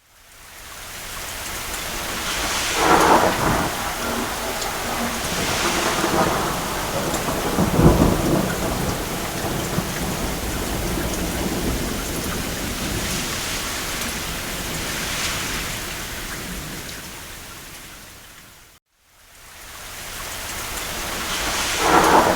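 Steady rain with several rolls of distant thunder, the deepest about eight seconds in. Toward the end the whole sound fades to a moment of silence, then swells back.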